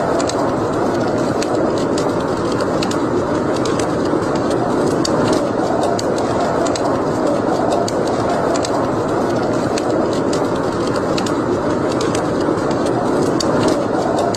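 Wood fire burning in a fireplace: a steady rushing flame noise with frequent scattered sharp crackles.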